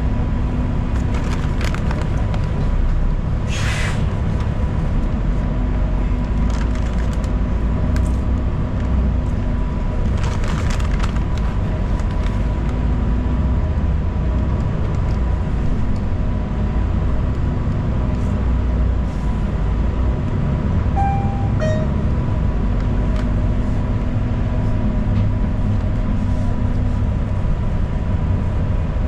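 City transit bus running, heard from inside the cabin: a steady low engine and road rumble with scattered small rattles. There are two short hisses, about four and ten seconds in, and a brief two-note electronic tone a little past twenty seconds.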